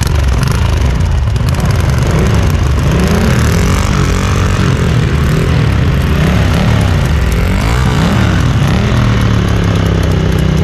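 Ducati Monster 1200's V-twin engine under way, its pitch rising and falling several times as the revs climb and drop through the gears.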